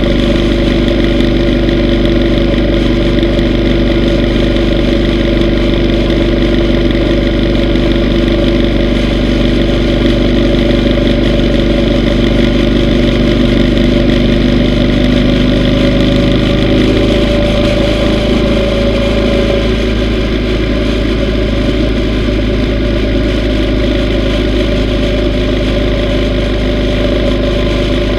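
Yamaha V Star 950's air-cooled V-twin engine running steadily while riding, heard from on the bike. About two-thirds of the way through, the engine note drops to a lower pitch.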